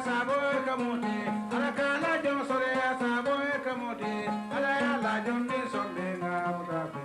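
Kora, the West African 21-string harp-lute, plucked in a repeating melodic pattern, with a voice singing over it in phrases that start about one and a half and four and a half seconds in.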